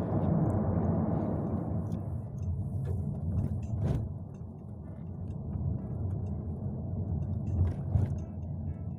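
Car driving, with a steady low rumble of engine and road noise. Short knocks come about four seconds in and twice near eight seconds.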